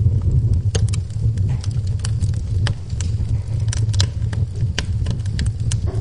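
Wood fire burning in a fireplace: a steady low rumble of flames with frequent, irregular sharp crackles and pops of burning wood.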